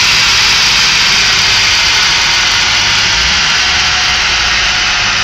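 Loud steady rush of air over a low engine rumble, easing slightly toward the end: a 2006 Mustang GT's 4.6-litre V8 with Flowmaster axle-back exhaust running on a chassis dyno.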